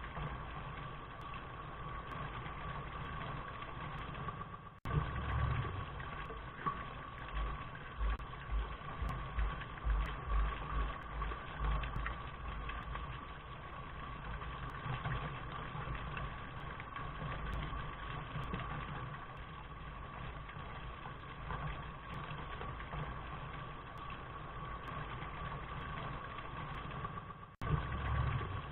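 Steady rain noise with an uneven low rumble underneath, interrupted by two short dropouts, about five seconds in and near the end.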